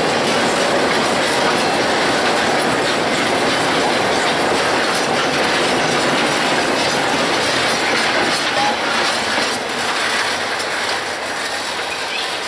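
Iron ore train rolling past at close range: a steady clatter of steel wheels over the rail joints. A brief wheel squeal comes about two-thirds of the way through.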